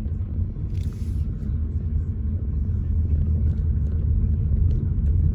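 Car driving along: a steady low rumble of engine and road noise, growing a little louder toward the end.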